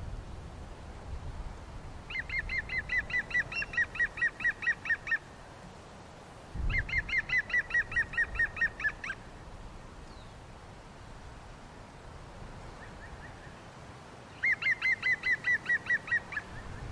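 A bird calling in three rapid runs of short, high, repeated notes, about five a second, each run lasting two to three seconds.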